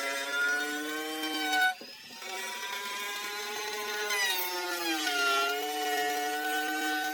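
Electric power tool running on wood with a steady motor whine. There is a brief break just before two seconds in, and the pitch dips and recovers around four to five seconds in, as the motor slows under load.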